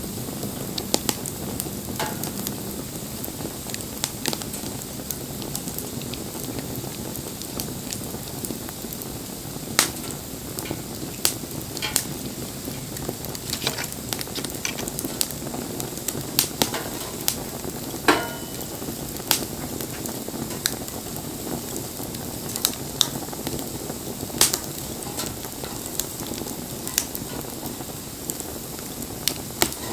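Wood fire burning: a steady hiss with frequent irregular crackles and sharp pops, a few of them loud, and a brief whistle partway through.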